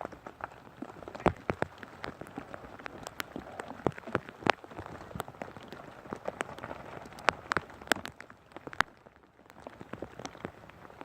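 Rain falling, with irregular sharp taps of drops landing close by and a steady patter behind them.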